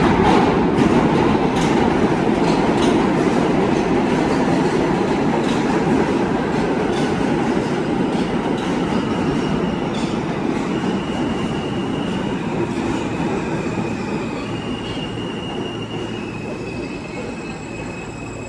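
New York City Subway L train running through the station with a loud rumble that fades steadily. Wheels click regularly over the rail joints in the first few seconds, and high wheel squeals set in from about halfway.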